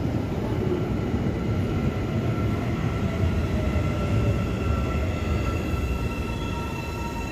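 A CPTM electric suburban train pulling into the platform: a steady low rumble of wheels on rail with a whine from the train. One tone of the whine falls in pitch about midway as the train slows.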